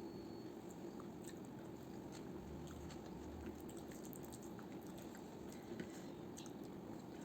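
A person chewing and eating a fried rice and mutton curry meal, with many small scattered mouth clicks over a steady low background hum.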